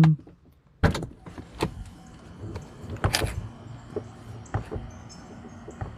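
Door being opened: a sharp latch click about a second in, then scattered clicks and knocks, the strongest about three seconds in.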